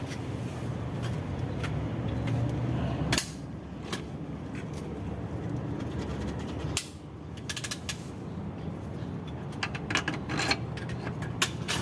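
Scattered clicks and light metallic knocks from tools and engine parts being handled during engine assembly, over a steady low hum that drops away about three seconds in.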